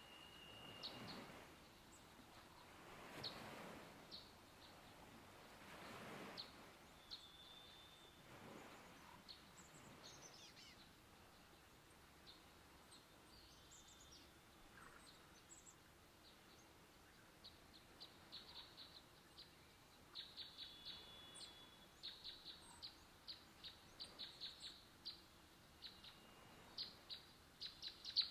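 Faint wild birdsong: scattered high chirps and a couple of short whistled notes, building in the second half into quick runs of high, rapid chirping. A few soft swishes sound in the first ten seconds.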